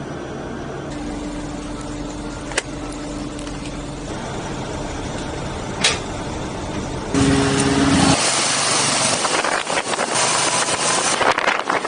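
A vehicle engine running steadily, with two sharp clicks, then about seven seconds in a much louder rush of noise that lasts about four seconds.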